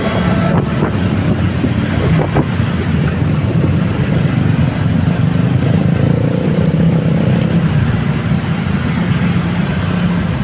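Motorcycle engine running steadily amid congested road traffic, a dense low drone with no sharp events; a faint steady tone rises out of it around the middle.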